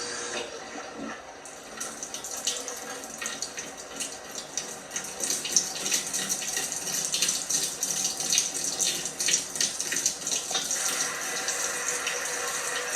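Water running and splashing inside an LG washing machine, with irregular sloshes and spatters. A steadier machine hum comes back in near the end.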